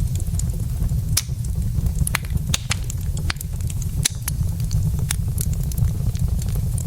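Wood fire burning in a fireplace, logs crackling with sharp, irregular pops over a steady low rumble.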